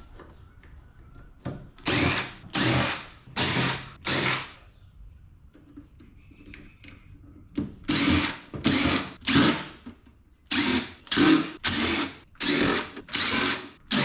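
Power drill backing screws out of an air conditioner's sheet-metal housing, in short bursts of about half a second, in three runs with pauses between.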